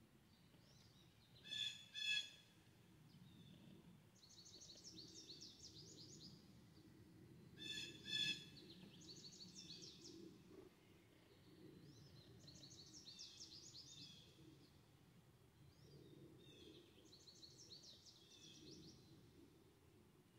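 Backyard songbirds: a bird repeats a short, rapid, high-pitched song phrase every few seconds, and twice a pair of louder harsh calls rings out, about a second and a half in and again about eight seconds in, over a faint low background rumble.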